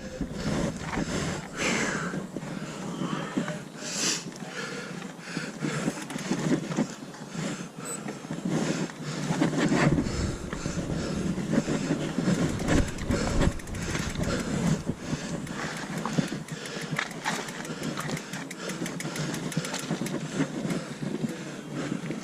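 Mountain bike riding down a rough trail: tyres running over dirt and stones, with a steady stream of clicks, knocks and rattles from the bike.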